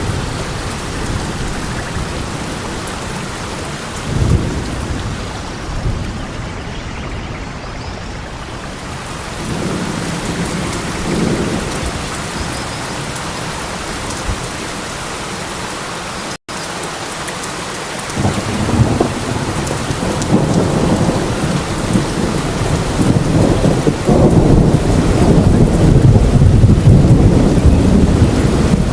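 Steady heavy rain with rolling thunder rumbling underneath, the rumble swelling in the second half and loudest near the end. The sound cuts out for a split second about halfway through.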